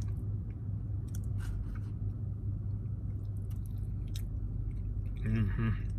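A person chewing a mouthful of potato salad, with scattered small clicks, over a steady low hum. A short voiced murmur comes near the end.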